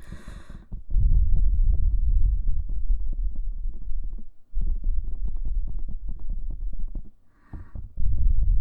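Close-up contact noise on a KU100 dummy head's microphone ears: a loud, muffled low rumble with fine crackle, in three stretches broken by short pauses. A brief soft hiss comes at the start and again shortly before the end.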